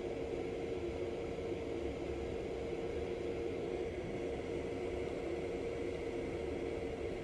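AC Infinity Cloudline Pro S4 inline duct fan running steadily: an even rush of air with a constant mid-pitched hum.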